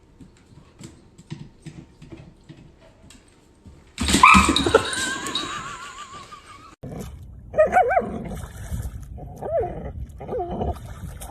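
A dog whining and howling: a sudden loud howl with a wavering pitch about four seconds in, then a string of short high-pitched whines. Faint light ticks come before it.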